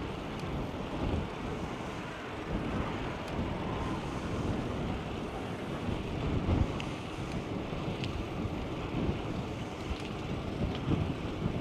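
Wind buffeting the microphone of a camera riding on a moving bicycle: a steady rush of air with uneven gusts, and a few faint ticks.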